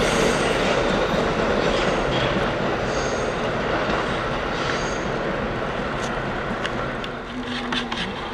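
A train running past on the rails, its noise slowly fading, with brief high-pitched wheel squeals about three and five seconds in and a few clicks near the end.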